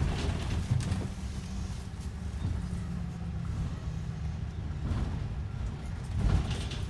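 Motor vehicle engine running with a steady low rumble and a faint held hum, with a few brief louder swells of noise.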